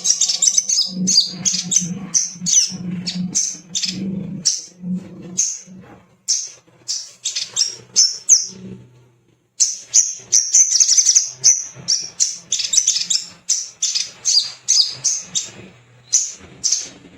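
Sogon (sogok ontong) calling: rapid runs of sharp, high chirps and trills that thin out briefly midway, then resume thickly.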